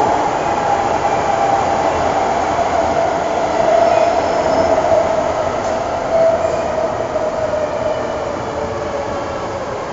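MTR first-generation M-Train electric multiple unit running, its motor whine falling steadily in pitch as the train slows, over the rumble of wheels on rail.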